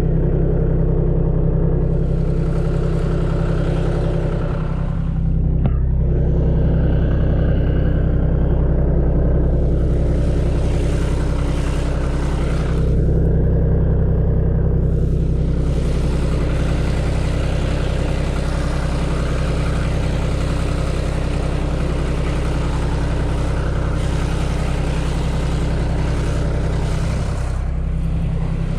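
A tractor's engine running steadily at constant speed, with a harsher, hissing noise over it that comes and goes.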